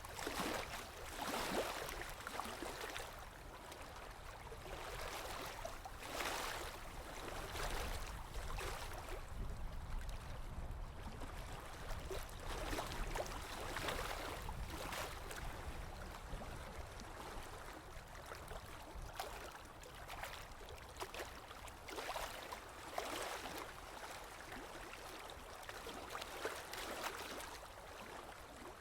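Small waves washing in and lapping, each swell a soft rush of water every few seconds.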